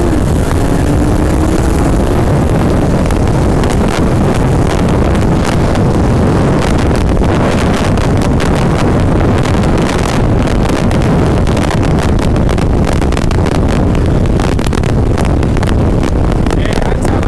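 Car accelerating hard at full throttle in a roll race, its engine note climbing during the first couple of seconds. After that it is buried under loud, steady wind and road rush with buffeting on the microphone.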